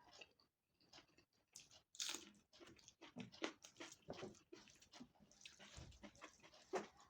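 A person chewing food close to the microphone: an irregular run of short, faint wet smacks and clicks from the mouth.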